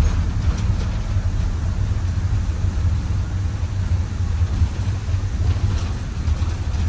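Micro Bird Girardin G5 cutaway bus under way, heard from inside the cabin: a steady low rumble of engine and road noise.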